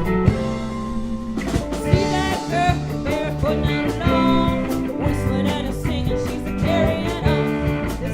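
Live rock band with guitar, mandolin, keyboards, bass and drums playing: a held chord, then the full band comes back in with a steady beat about a second and a half in, and a woman sings lead.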